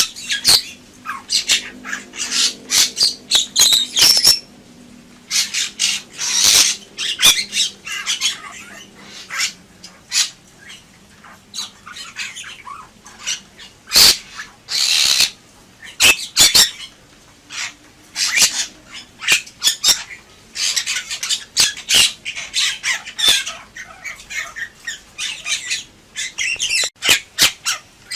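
Bali myna singing vigorously: rapid runs of short, scratchy calls and squawks in phrases, broken by brief pauses.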